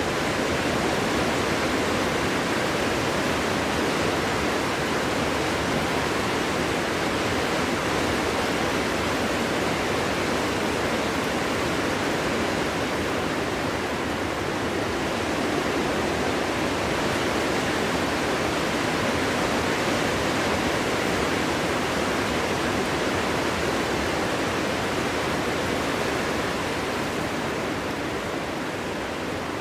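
Wind blowing steadily, a dense even rush with no whistling or howling tones; it eases slightly near the end.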